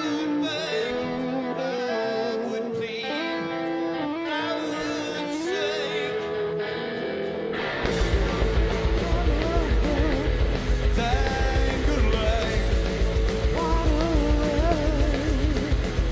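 Live rock band. An electric guitar plays a melodic line almost alone, then the full band crashes in with drums and bass about eight seconds in, loud and dense.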